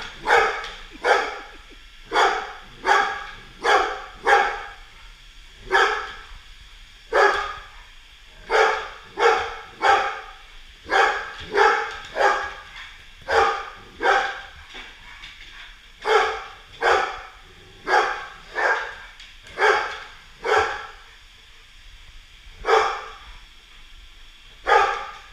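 Golden Retriever barking over and over, about one bark a second with a few short pauses.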